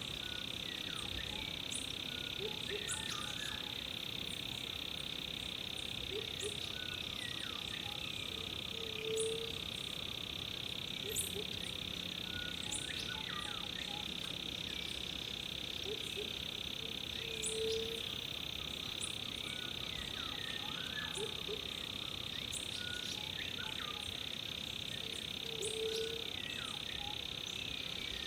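Rainforest chorus of frogs and insects: a steady high-pitched drone, with many short chirps and falling calls over it. A short low call sounds three times, about eight seconds apart.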